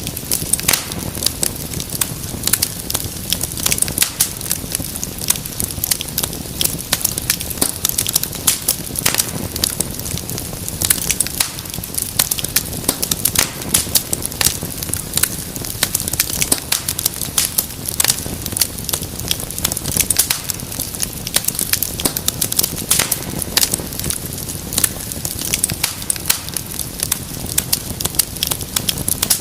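Wood fire crackling and popping: a rapid, irregular run of sharp snaps over the steady low rumble of the flames.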